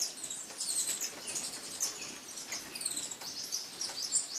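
Hummingbirds twittering: a dense, unbroken run of short, high-pitched chirps, several birds calling over one another.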